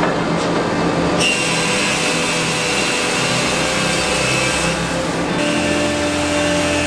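Hammer HNC 47.82 CNC router running and milling wood. A hissy cutting noise starts about a second in and stops about two-thirds of the way through, while the machine's steady hum carries on.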